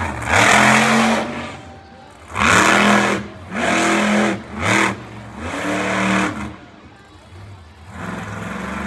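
Monster truck engine revving in about five hard throttle bursts, each rising and falling in pitch, with quieter gaps between; the last burst is the longest.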